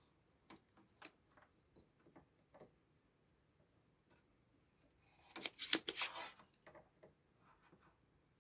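Scattered light clicks and knocks of small parts and tools being handled, with a short burst of sharp rattling clatter about five and a half seconds in.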